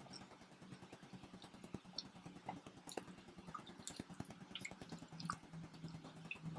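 Quiet chewing of pizza, with scattered small mouth clicks and crackles, over a faint low hum.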